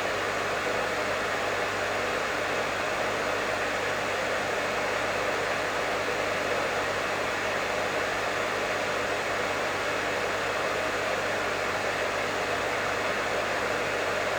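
Professional hair dryer running steadily: an even, unbroken rush of air with a faint low hum underneath.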